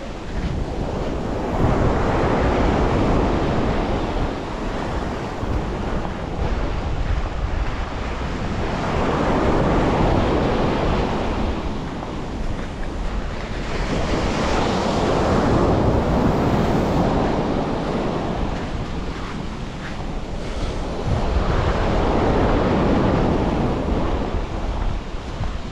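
Sea waves breaking and washing up a beach in slow surges several seconds apart, with wind buffeting the microphone.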